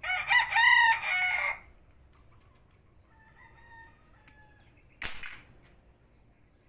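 A rooster crows loudly for about a second and a half, with softer clucking a couple of seconds later. About five seconds in comes a single sharp shot from the homemade PVC pipe gun, a sudden pop with a short hissing tail.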